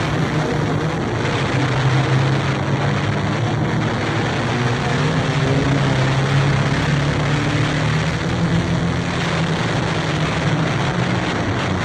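Banger racing car engine running with a steady low drone, over a rough wash of mechanical and track noise.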